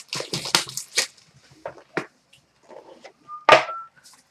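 Packaging of a hockey trading-card box being torn open and handled. There is a quick run of crackling rips in the first second, scattered rustles after that, and a louder tear about three and a half seconds in, with a short high tone sounding alongside it.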